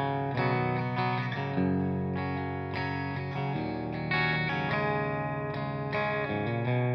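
Electric guitar played through a freshly recapped 1965 Fender Tremolux AB763 tube amp. Chords and single notes change about every half second to a second.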